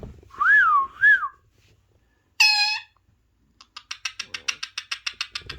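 Pet parrot calling: two rising-and-falling whistles, a short harsh squawk, then a fast chattering run of short notes, about eight a second.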